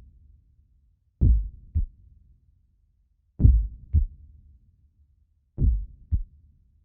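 Heartbeat sound effect: three slow double thumps, each a deep beat followed by a softer one, about two seconds apart.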